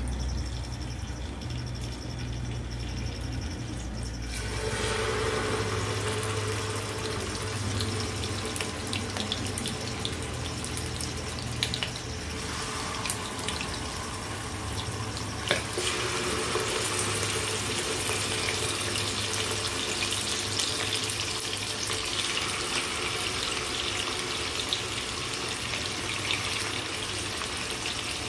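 Chicken pieces sizzling in hot oil in a frying pan, a steady hiss with small crackling pops. The sizzle starts about four seconds in and grows louder as more pieces go into the pan, with another jump around fifteen seconds in.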